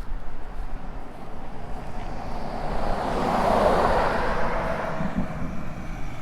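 Nissan 350Z with an ISR single-exit exhaust driving up, over a steady low rumble. Its engine and road noise swell to a peak about midway and then fade.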